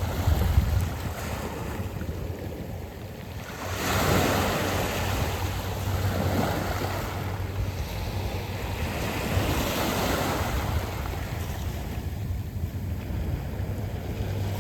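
Sea waves washing onto a round-pebble beach, swelling about four seconds in and again around ten seconds. A low rumble of wind on the microphone runs underneath.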